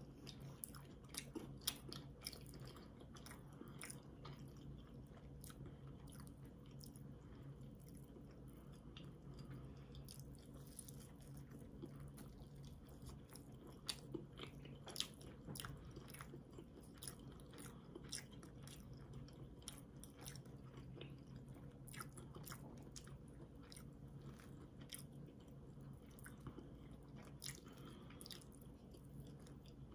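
Faint chewing and mouth sounds of people eating sandwiches: many small wet clicks and smacks at irregular intervals over a steady low hum.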